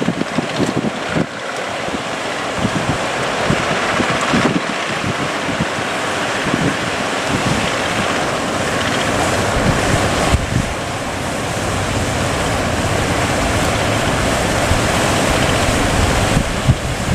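Heavy sea surf breaking, with wind buffeting the microphone.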